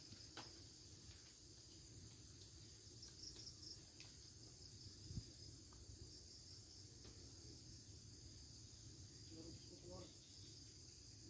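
Faint, steady, high-pitched insect chorus, with a few light clicks and a soft thump about five seconds in.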